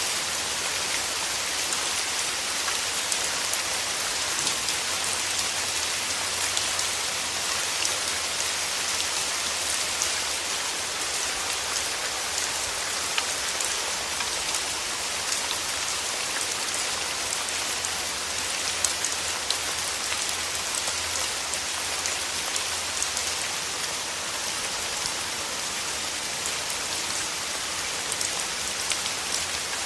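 Steady rain falling on a surface, an even hiss dotted with many small individual drop ticks.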